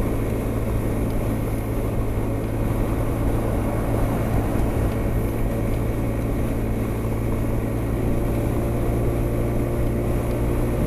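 A Honda SH300i scooter's single-cylinder engine runs steadily at motorway speed, mixed with constant wind rush.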